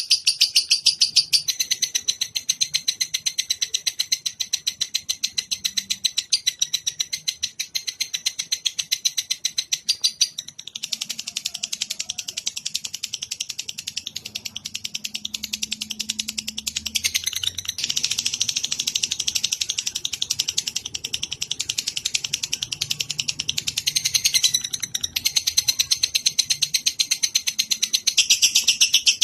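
A songbird giving a long, unbroken, very fast run of high chirps, many to the second, its pattern shifting a few times without a pause.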